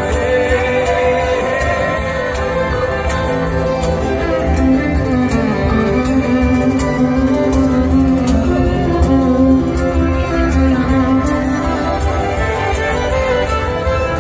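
Live folk band playing an instrumental break: fiddle carrying a sustained melody over guitar, bass and a steady beat.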